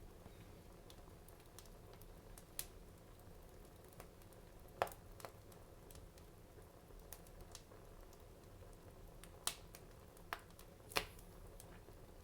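Wood fire crackling in a fireplace: scattered sharp pops, about six louder ones among fainter ticks, over a quiet steady background.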